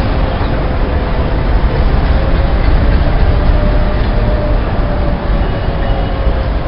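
Indian Railways electric locomotive train in motion: a loud, steady rumble with a faint steady whine running through it.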